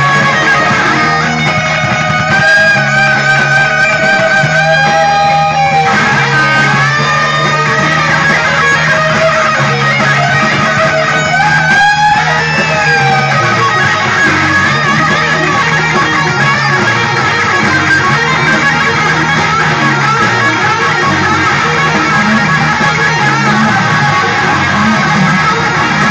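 Electric guitar playing a blues lead, holding wavering notes with vibrato and sliding bends, over a steady bass line.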